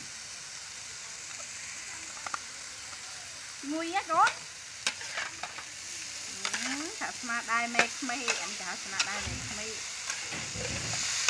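Vegetables sizzling and frying in a steel wok while being stirred with a metal spatula: a steady hiss with clinks of the spatula on the pan. In the middle come several short squeaky rising sounds and clicks.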